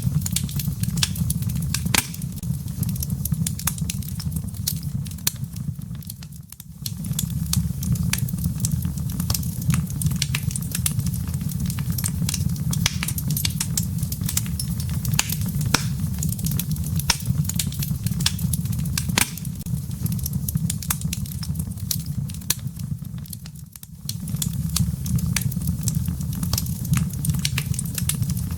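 Wood fire burning in a fireplace, crackling steadily with many sharp pops over a low, even rumble of the flames. The sound briefly drops away twice, about a third of the way in and near the end.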